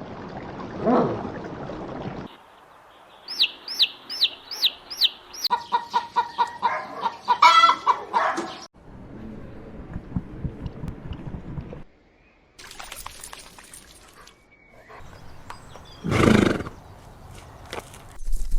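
A string of short, separate animal clips led by chickens clucking. A run of five quick, high, falling chirps comes about three seconds in, and a single loud call near the end.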